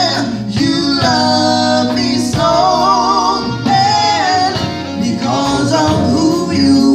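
Gospel song: a singer holds long wavering notes with vibrato, without clear words, over instrumental accompaniment.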